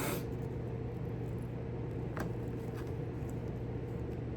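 Steady low hum, with a few faint light clicks, one about two seconds in and another shortly after.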